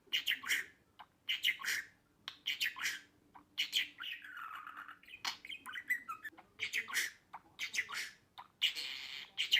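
Budgerigar chattering in quick bursts of chirps and squawks, with a longer rasping squawk about four seconds in and another near the end.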